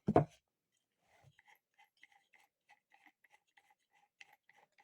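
Faint metallic clicks, about three a second, as the angle grinder's flange nut is turned loose by hand with two bolts wedged in its holes. A brief loud sound comes at the very start.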